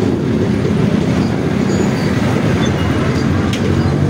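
Motorcycle and scooter engines running at crawling speed in close traffic, a steady low rumble: the rider's Yamaha Aerox 155 scooter and a motorcycle-sidecar tricycle just ahead.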